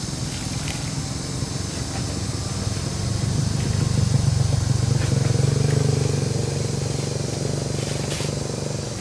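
A small engine running, growing louder about three seconds in and easing off again near the end.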